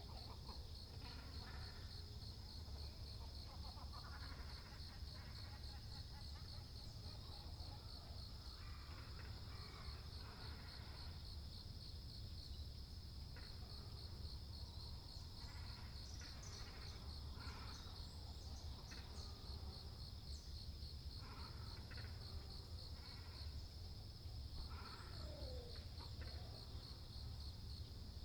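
An insect trills continuously in a steady high pulsing drone, while great cormorants and herons give scattered short, harsh calls every second or two over a low steady rumble.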